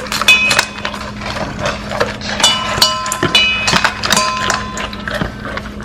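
A large dog eating dry food from a bowl: rapid, irregular crunching and clicking of chewed kibble. A few notes of light background music sound alongside.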